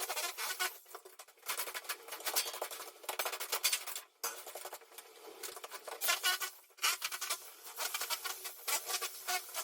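Rapid scraping, clicking and clattering of an old floor being broken up and its debris shifted, in busy spells with a few short pauses.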